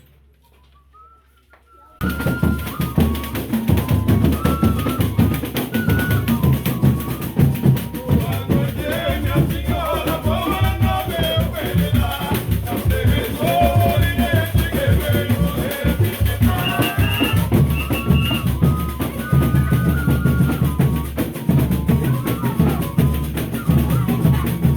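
Brazilian Folia de Reis music: after a brief near-silent gap, the band cuts in abruptly with dense, fast drumming and rattles. About a third of the way in a melody joins the percussion.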